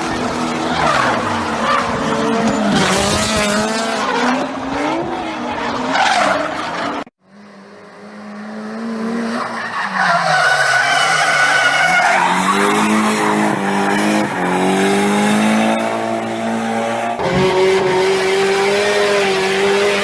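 Drift cars sliding, their engines revving up and down on and off the throttle while the tyres screech. It is a string of clips with abrupt cuts: the sound drops out suddenly about seven seconds in and fades back up, then changes again at a sharp cut near the end.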